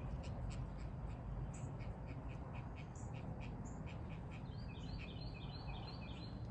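Wild birds chirping with short, high calls throughout. In the second half comes a quick run of about six harsh, evenly spaced call notes from one bird.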